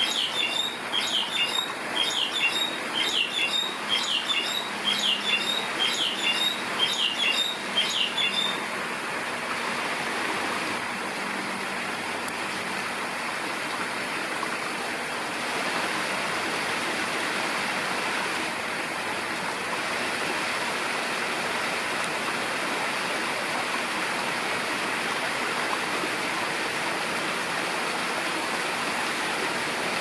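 A bird chirping over and over, about one and a half calls a second, stopping about eight seconds in, over a steady rush of running water that then carries on alone.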